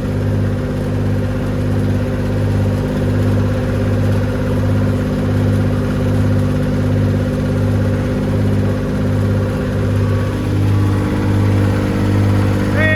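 Massey Ferguson 135's three-cylinder diesel engine running steadily in low gear with a slight even pulse, driving a feed wagon's chain and cogs through the PTO.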